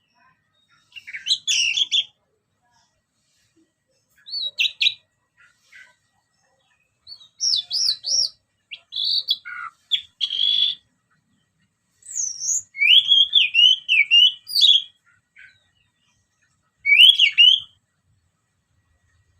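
Orange-headed thrush singing: about six short phrases of varied, fast, sliding whistled notes with brief pauses between them, the longest phrase a little past halfway through.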